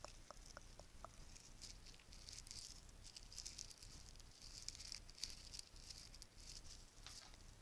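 Bracelets being handled: a few light clicks in the first second, then faint, soft rustling and tapping.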